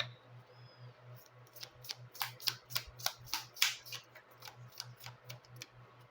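Oracle cards being handled and drawn from the deck: a sharp click at the start, then a run of irregular snaps and taps, densest between about one and four seconds in. A steady low hum lies underneath.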